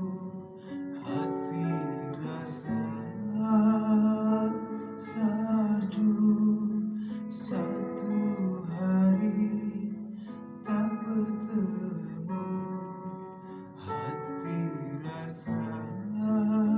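Music: an acoustic guitar strummed in slow chords, with a voice singing a wavering melody over it.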